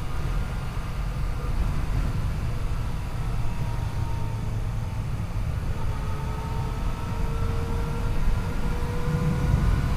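Yamaha FJ-09's three-cylinder engine running at a steady cruise, its pitch drifting slowly up and down, under heavy wind rush on the microphone. The rumble grows a little louder near the end.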